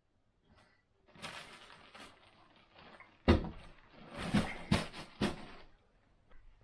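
Rustling, then a few sharp knocks, the loudest about three seconds in, as things are handled and knocked.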